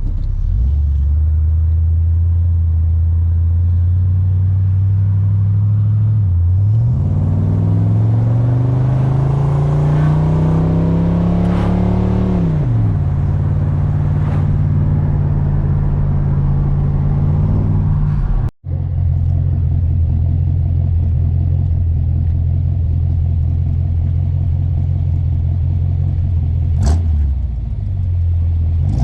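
Chevrolet Chevelle engine running through dual exhaust with glasspack mufflers. It idles steadily, then is revved up about six seconds in, held for several seconds and let fall back to idle. There is a quick throttle blip near the end.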